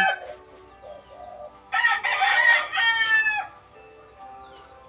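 Pet bird giving one loud call about two seconds long, starting a little under two seconds in.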